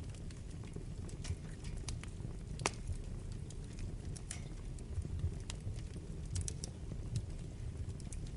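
Wood fire burning in a fireplace: a steady low rumble of the flames with irregular sharp crackles and pops from the burning logs, the loudest pop about two and a half seconds in.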